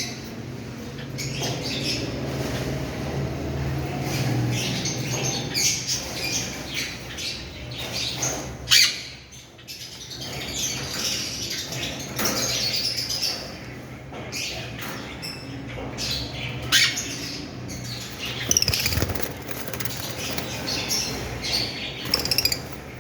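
A flock of lovebirds chirping and squawking continuously, with occasional wing flaps and a sharp knock about nine seconds in, over a steady low hum.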